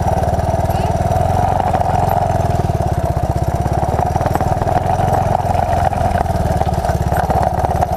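1981 Honda XL185's single-cylinder four-stroke engine running at a steady, even speed.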